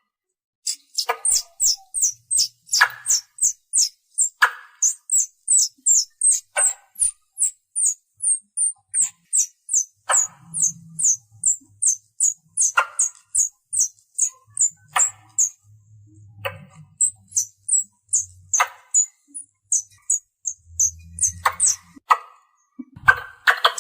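Squirrel calling to draw others in: a long run of sharp, high chirps, each dropping in pitch, about three a second, broken every two seconds or so by a lower, harsher chuck.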